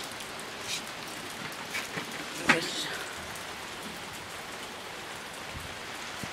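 Steady rain from an approaching typhoon, with a few scattered drips and taps; the loudest is a sharp tap about two and a half seconds in.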